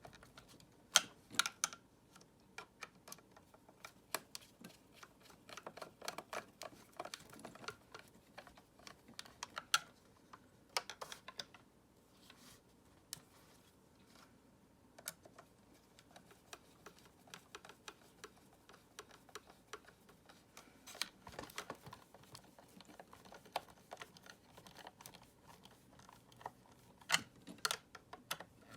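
Light, irregular clicks and taps of hard plastic Dyson vacuum cleaner parts being handled and fitted together, some in quick clusters and a sharper one about a second in.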